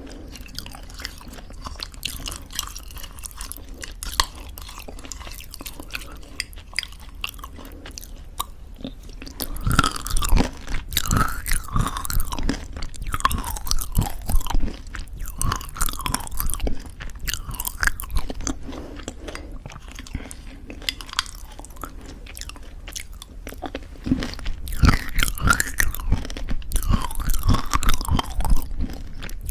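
Close-miked chewing of homemade granola in thick yogurt, crunching in spells: softer mouth sounds at first, then loud crunching about ten seconds in and again near the end.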